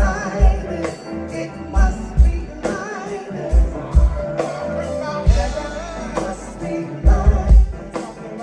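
Live band playing a slow soul song with a singer's voice over it: bass drum, bass and cymbal or tambourine on a steady beat.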